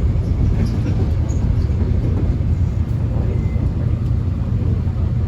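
Steady low rumble inside a subway train car as the train runs along the rails.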